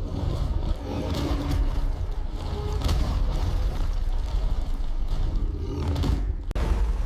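Animal fight sound effects: big-cat roaring and growling over a deep, continuous rumble, with a brief break near the end.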